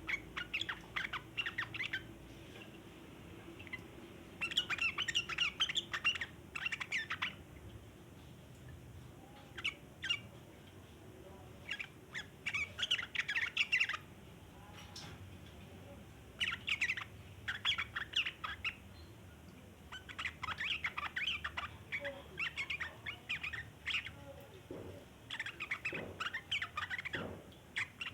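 Sooty-headed bulbul (trucukan) giving its long chattering 'ngeriwik' call: bouts of rapid twittering notes a second or three long, repeated every few seconds with short pauses between.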